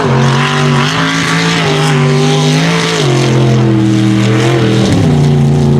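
Unlimited-class mega truck engine running hard at high revs on the race course, its pitch shifting up and down in steps a few times.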